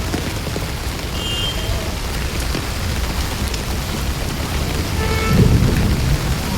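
Heavy rain falling steadily, an even hiss with a low rumble beneath it that swells louder about five seconds in.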